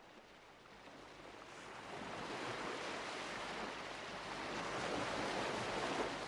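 Mediterranean surf washing on the shore, a steady rush of waves that grows louder over the first two seconds.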